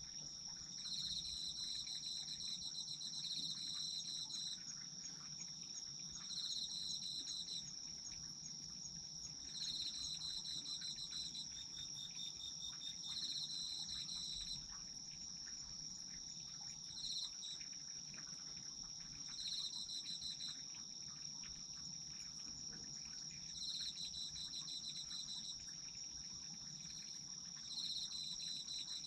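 A chorus of autumn crickets and other singing insects. One keeps up a steady, unbroken high trill, while another sings in bursts of about a second, repeated every few seconds.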